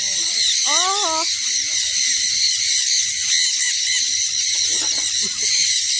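A large flock of lovebirds chattering, a dense, continuous mass of high, overlapping chirps and squeaks. A short rising call stands out about a second in.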